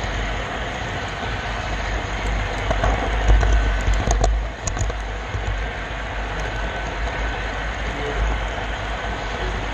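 Model railroad train rolling along the track: a steady rumble of wheels on rail, with a sharp click about four seconds in.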